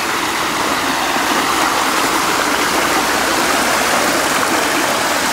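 Water of a small waterfall and stream rushing steadily over rocks.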